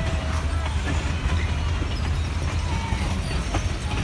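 Passenger cars of a train rolling past: a steady low rumble of wheels on the rails, with scattered clicks and a few faint thin squeals.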